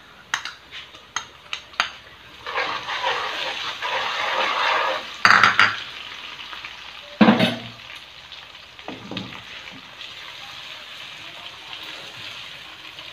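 Ginger-garlic paste sizzling loudly as it hits the hot ghee and fried onions in an aluminium karahi, settling to a steadier frying hiss as it is stirred in. A metal spoon clicks and knocks against the pan, with two sharp knocks in the middle.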